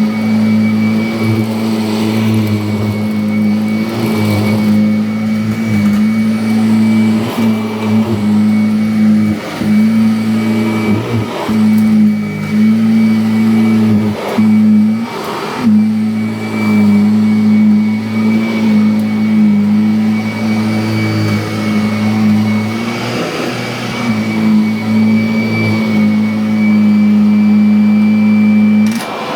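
Upright vacuum cleaner running steadily over a test patch of rice and dog hair: a loud motor hum with a thin high whine, dipping briefly now and then as it is pushed back and forth, with a few short knocks. The motor shuts off just before the end.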